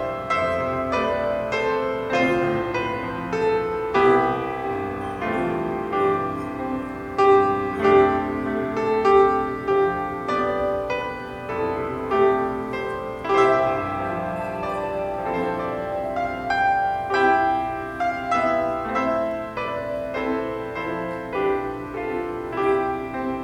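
Solo piano playing a slow instrumental piece, many struck notes ringing on throughout.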